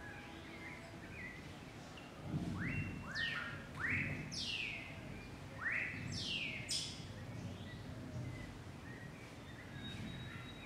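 Birds calling: a run of rising whistles and a few sharp, high falling sweeps, bunched in the middle of the stretch, over a faint low background rumble.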